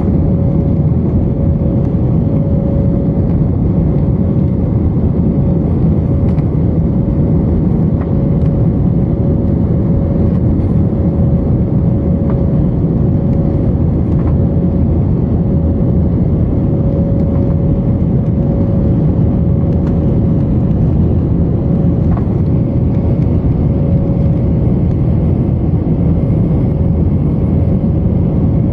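Steady engine and airflow noise inside an aircraft cabin during the climb after takeoff: a deep, even rumble with a steady hum over it.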